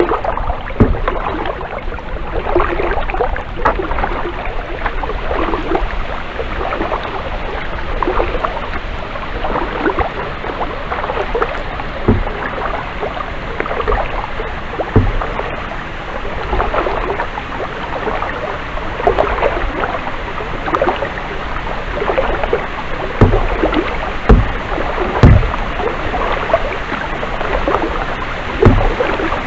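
Kayak paddling: the blades dip and splash through the water, with water running and dripping in irregular strokes. A few sharp low thumps stand out, the loudest near the end.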